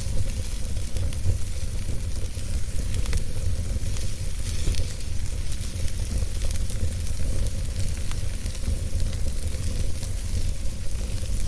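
Wood fire burning in a fireplace: a steady low rumble and hiss, with frequent small crackles and pops from the burning wood.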